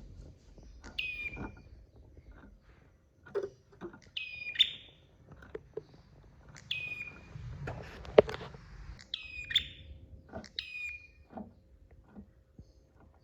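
Prenjak (prinia) calling: about five sharp, high chirping phrases a couple of seconds apart, over scattered faint clicks.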